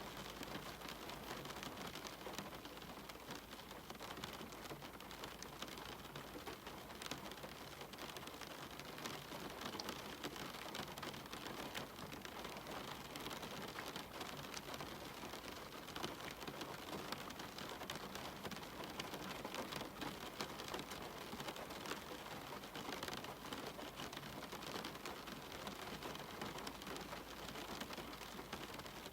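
Steady rain: an even hiss with a dense patter of individual drops.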